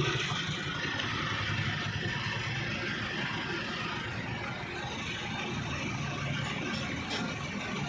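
An engine running steadily: a low hum with some hiss over it.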